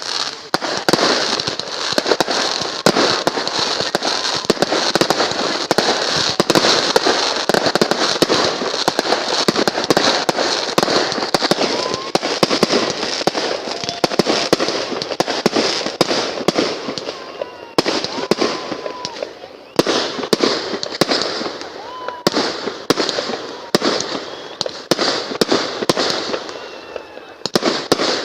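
Fireworks display going off: dense, continuous crackling with many sharp bangs packed together. The barrage thins briefly twice in the second half before building again.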